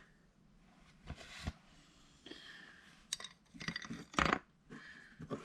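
Rag wiping the oil dipstick: a few short rustling, scraping strokes, with a sharp click about three seconds in.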